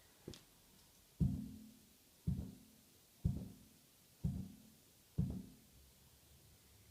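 Five knocks about a second apart, each with a short low ring, as the freshly tightened scooter fork and bars are knocked to check for rattle.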